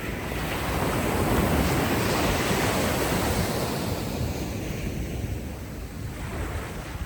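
Ocean wave breaking and washing up the beach: a rushing surge that swells about a second in and eases off near the end, over a steady background of surf.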